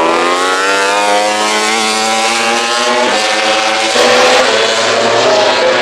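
MotoGP race motorcycle engines running at high revs, the engine note rising steadily, then changing abruptly about three seconds in and again about four seconds in.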